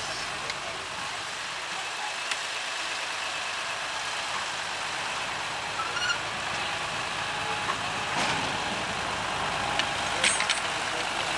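Vintage tractor engines running, with a steady outdoor hum and a few short clicks and knocks near the end.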